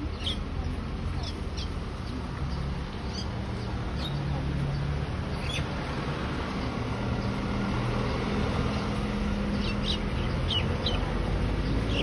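Small birds in a tree giving short, sharp chirps, scattered singly and in quick runs, most thickly near the end, over a steady low rumble.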